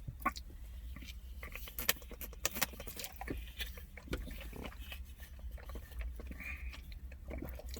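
Faint, scattered small clicks and ticks from a scoop of pre-workout powder being taken dry: the scoop and tub being handled and the powder taken into the mouth. A low steady hum sits underneath.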